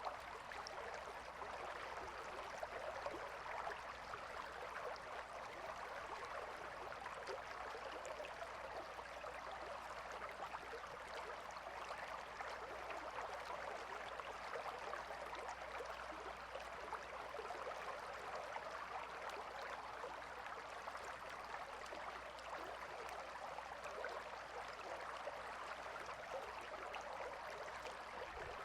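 A shallow river flowing and babbling steadily over stones: an even, continuous rush of water.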